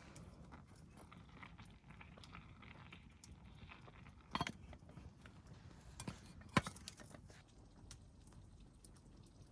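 A few sharp knocks over faint background noise: three hard clicks a second or two apart in the second half, the last the loudest.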